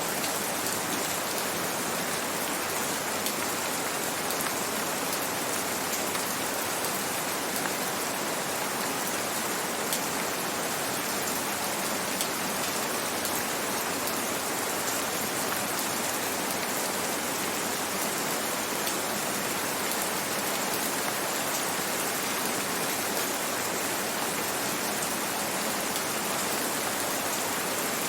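Steady rain falling, an even hiss with many fine drop patters throughout.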